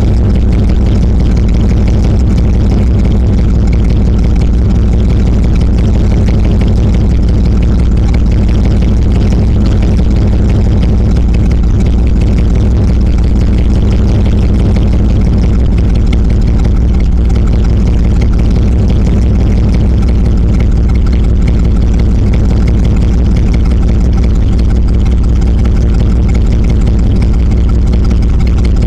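1996 Dodge Ram 1500 engine idling steadily through a cut exhaust that dumps under the truck just past the catalytic converter, loud and unmuffled. The phone microphone is overloaded and distorts the sound.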